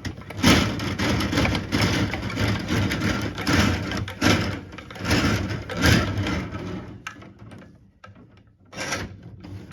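Plumbing snake cable being worked in and out of a central vacuum line through its wall outlet, scraping and rattling against the pipe as it clears a clog. The scraping comes in irregular strokes for the first several seconds, then gives way to a few quieter knocks.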